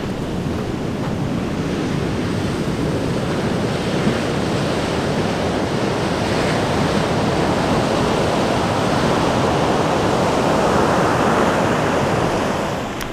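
Big ocean surf breaking on a beach: a continuous rushing wash of waves that slowly builds, loudest shortly before the end, then eases off.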